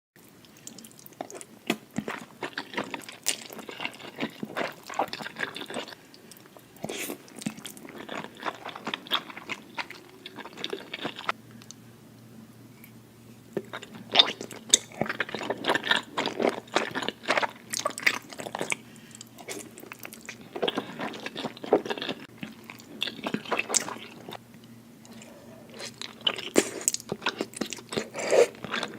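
A person biting and chewing crunchy food, with dense, irregular crunches that pause briefly about halfway through.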